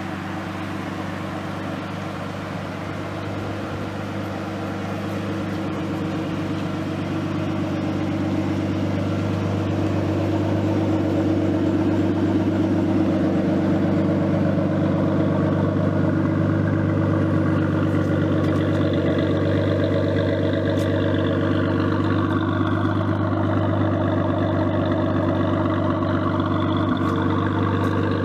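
Turbocharged RB20DET inline-six of a 1987 Nissan Skyline running at a steady idle. It grows louder over the first ten seconds or so and then holds steady, with a faint high whine that dips and rises in pitch in the second half.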